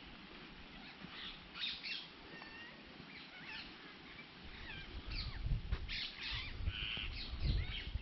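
Wild countryside birds chirping and calling, many short overlapping calls throughout. From about five seconds in, a low rumble joins them and is the loudest thing to the end.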